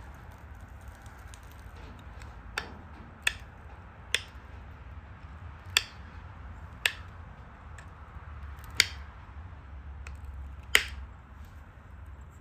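Pressure flaking a stone Dalton point: about seven sharp clicks, spaced irregularly, as the flaker pushes flakes off the edge. A steady low hum runs underneath.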